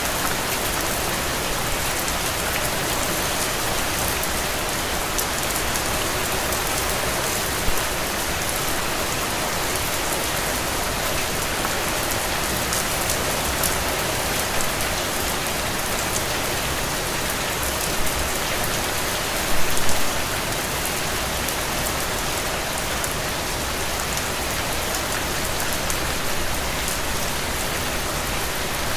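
Heavy, steady rain falling on soaked soil and puddles, a dense even hiss. A few louder drop impacts stand out, the biggest a short cluster about two-thirds of the way through.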